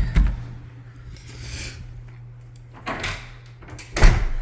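A door being handled and shut: a thump just after the start and a louder thump about four seconds in, with rustling between.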